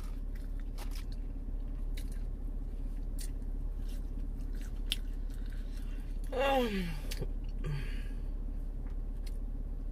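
Close-up mouth sounds of someone eating french fries: chewing with scattered small lip smacks and clicks, and about six seconds in a short vocal hum that falls in pitch.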